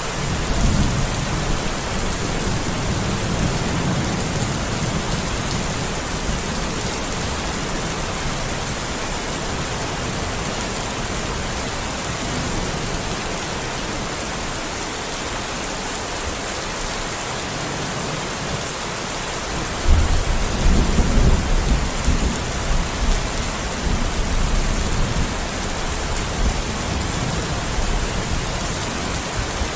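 Steady heavy rain hissing, with rolls of thunder. The first roll rumbles at the start and fades over a few seconds. A louder one breaks in suddenly about two-thirds of the way through and rolls on for several seconds.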